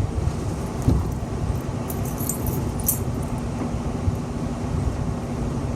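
Interior of a moving city bus: a steady low rumble of engine and road with a steady hum, a single bump about a second in, and light metallic rattling of fittings around two to three seconds in.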